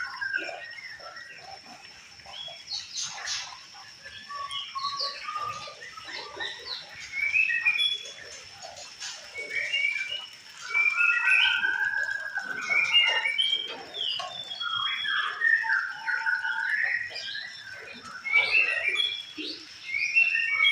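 White-rumped shama (murai batu) singing in bouts of varied short whistles and chattering phrases, over a faint steady high-pitched whine.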